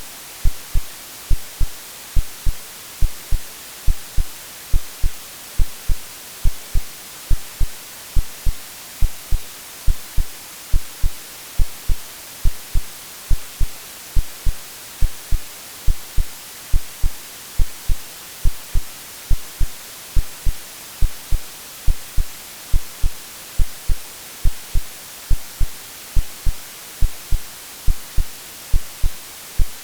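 Synthetic heartbeat, regular low thumps about twice a second, over a steady white-noise hiss.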